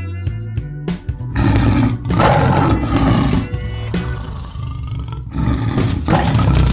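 Lion roars, repeated several times from about a second and a half in, over background music with steady low notes.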